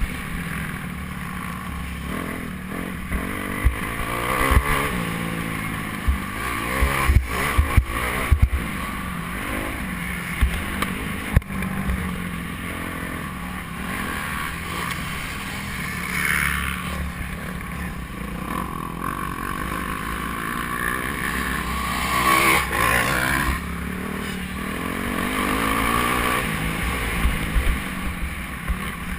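Motocross bike engine revving up and easing off again and again as it rides, with sharp knocks scattered through.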